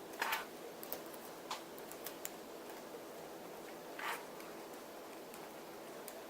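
Small plastic and metal parts of a smartphone being handled on a workbench: a few light clicks and taps and one short scrape, as a camera bracket and rubber piece are fitted to a Galaxy S3 screen.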